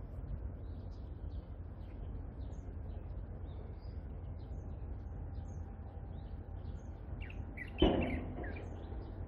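Small birds chirping and twittering over a steady low rumble. Near the end a sudden, loud, short sound cuts in.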